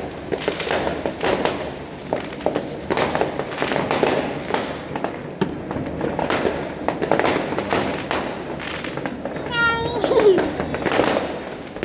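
Many fireworks going off at once: a dense, continuous run of bangs and crackles, several a second.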